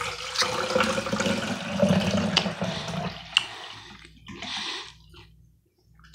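Close-up wet chewing and mouth noises with small clicks, loudest in the first three seconds and dying away toward the end.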